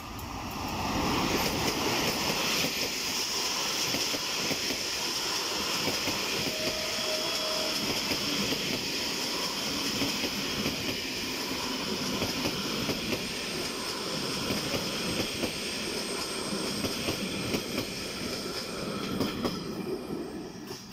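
Passenger train pulled by an electric locomotive passing close by: a sustained rumble of wheels on rail, with the coaches' wheels clattering over the rail joints. It swells about a second in and falls away sharply at the end.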